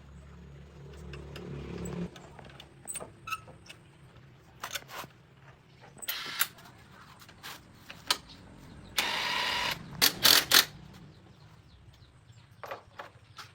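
A vehicle engine running low and swelling over the first two seconds, then scattered metallic clicks and knocks of tools being handled, with two short hissing bursts and a sharp cluster of clanks about ten seconds in.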